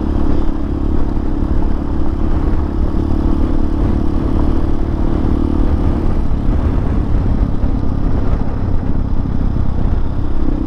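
Hawk 250 dual-sport motorcycle's single-cylinder engine running while riding a dirt trail, over heavy low wind rumble. The engine note fades about six seconds in and comes back near the end.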